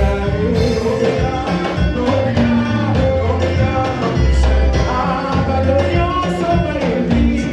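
Live gospel praise-and-worship band playing an upbeat song with a steady beat and bass line, with singing over it.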